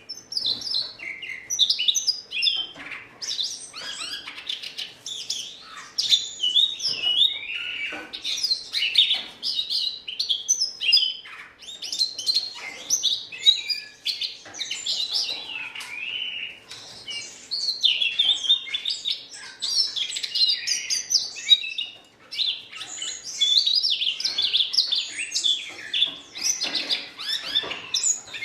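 Siberian rubythroat singing a long, fast, varied warble of high twittering and scratchy notes, in phrases broken by short pauses.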